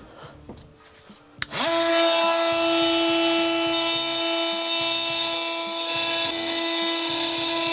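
Oscillating multi-tool switched on about a second and a half in: it spins up briefly, then runs at a steady high-pitched whine while cutting an old compression olive off a copper pipe.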